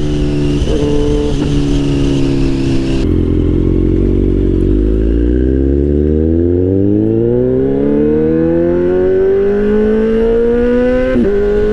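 Kawasaki Z800's inline-four engine with an aftermarket exhaust, its dB killer removed, accelerating hard: the engine note climbs steadily for several seconds, then drops suddenly about eleven seconds in at a quick upshift.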